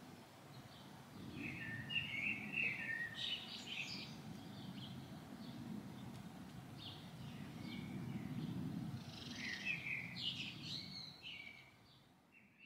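Wild birds chirping and calling in short irregular phrases over a low background rumble, fading out near the end.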